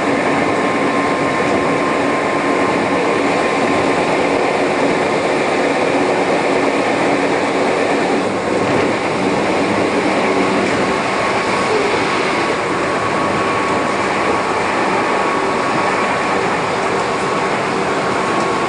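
Electric commuter train running at speed, heard from inside the carriage: a steady, loud rumble and rush of wheel and track noise with faint steady humming tones over it.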